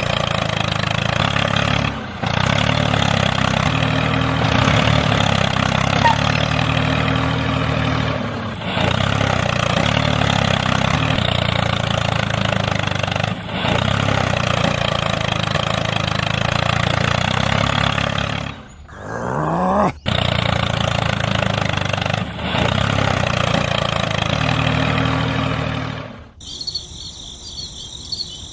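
Tractor engine running steadily, broken by abrupt cuts every few seconds, with a brief rising rev about two-thirds of the way through. Near the end the engine stops and faint high-pitched chirping remains.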